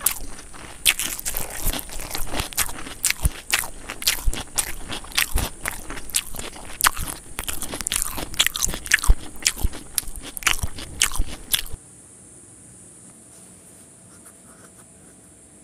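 Close-miked eating: crunchy food bitten and chewed, a dense run of crisp crunches and clicks. The sound cuts off suddenly about twelve seconds in, leaving only a faint hiss.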